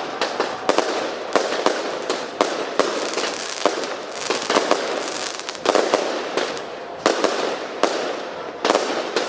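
Fireworks display going off: a steady crackle with many sharp bangs, a few a second at irregular intervals, with no break.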